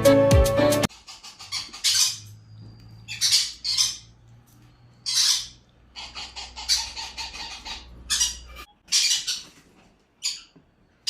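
Music cuts off about a second in, then a ring-necked parakeet gives a string of short squawks at irregular intervals, about ten in all.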